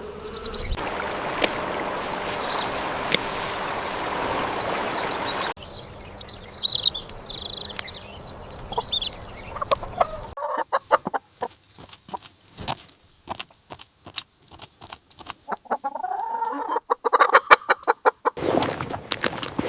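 Chickens clucking in a run of short, quick calls, some of them pitched, through the second half. Before that there is a stretch of steady outdoor noise, then a short spell of high bird chirps, each cut in sharply.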